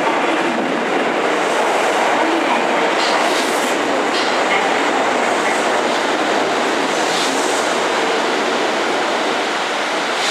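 Kintetsu 1810-series two-car electric train running into an underground terminal platform and slowing, its wheels rumbling and clacking over the rails. A few short high squeals come through as it runs in.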